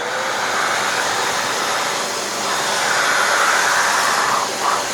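Dyson DC25 upright vacuum running with an air-driven hand turbo tool on its hose, the tool's brush roll spinning under the suction: a steady rushing of air, with a brief dip in level near the end.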